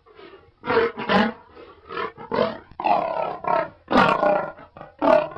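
Lion roaring in a run of about eight short, grunting calls, roughly half a second apart.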